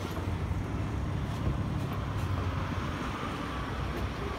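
Canadian Pacific Holiday Train passenger cars rolling past, a steady low rumble of wheels on the rails.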